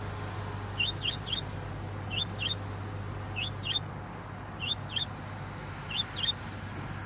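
A small bird chirping: short rising chirps, mostly in pairs, repeating about every second and a quarter over a steady low hum.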